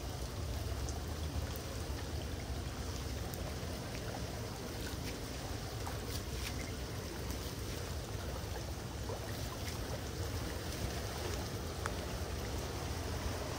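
Floodwater running into a street storm drain: a steady rush of flowing water with a few faint ticks of small splashes.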